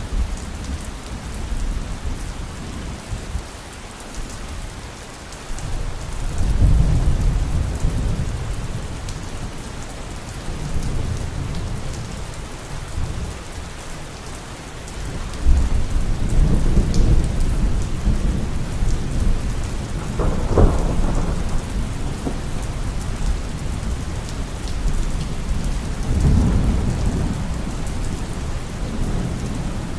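Steady heavy rain with rolling thunder: a low rumble about six seconds in, a longer roll from about halfway with a sharper crack in the middle of it, and another rumble building near the end.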